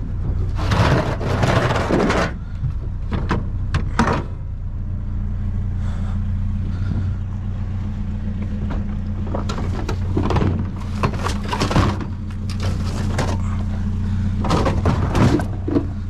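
Vehicle engine idling with a steady low hum, while several bouts of clunking and rattling come over it, like things being handled and a door or panel being moved.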